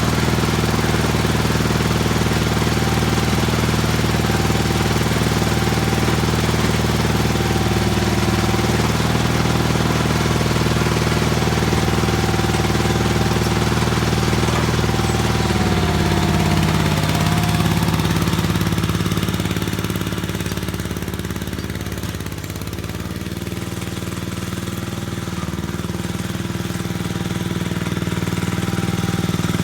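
Gravely tractor engine running steadily. About halfway through its pitch drops, and a few seconds later it grows quieter before rising again near the end.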